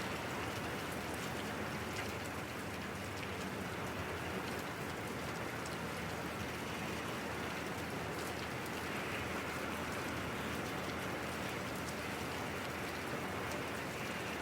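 Steady rain falling, with a dense patter of drops striking surfaces.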